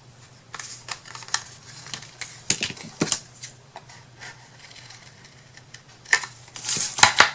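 Small wooden craft pieces being handled and set down on a work table: an irregular scatter of light taps and clicks, with a louder cluster of clacks near the end.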